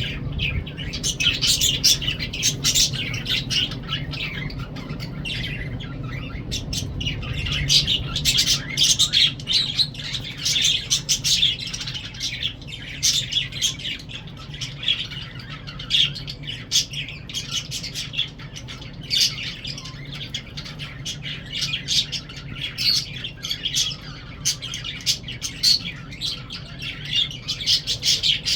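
A group of lovebirds chattering, with rapid, high chirps and squawks in a constant stream, over a steady low hum.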